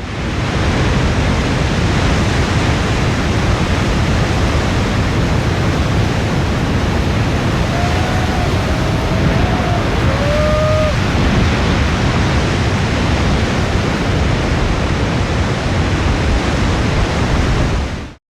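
Loud, steady roar of wind and pounding big-wave surf on an outdoor microphone. A few faint, short pitched calls cut through between about 8 and 11 seconds in.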